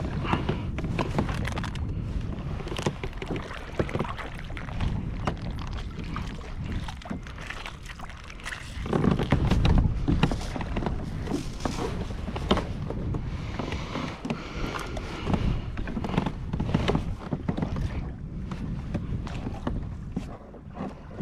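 A fishing kayak drifting on open water: water sloshing against the hull with wind on the microphone and scattered small knocks. A stronger low gust of wind noise comes about nine seconds in.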